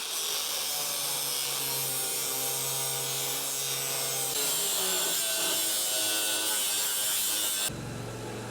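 A power cutting tool cutting through the rusty sheet steel of a truck cab. It makes a steady, loud hiss while the motor's pitch wavers under load. Near the end the cutting stops and a quieter steady hum is left.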